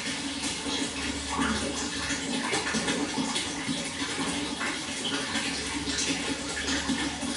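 Water flowing steadily, a continuous rushing hiss with no breaks.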